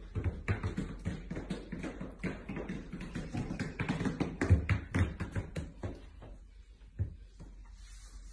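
Huskies walking in dog boots: irregular taps and knocks of booted paws on the floor, with a few heavier thuds, thinning out near the end.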